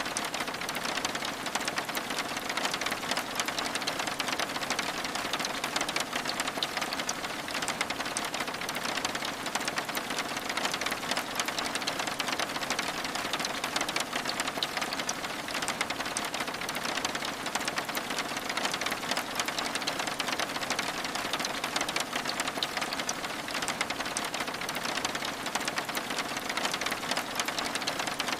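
Steady rain falling on a window: an even hiss dense with tiny ticks of drops, unchanging throughout.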